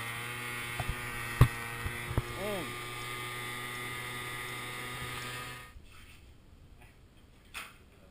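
Small motorcycle engine running at a steady speed with an even drone, one sharp knock about a second and a half in. The engine sound cuts off abruptly a little before six seconds, leaving only faint background with a few small clicks.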